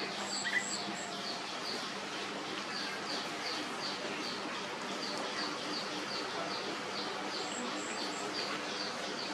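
A bird calling with a short high chirp repeated evenly about three times a second over a steady outdoor hiss. A thinner, higher three-note call comes in twice, near the start and near the end.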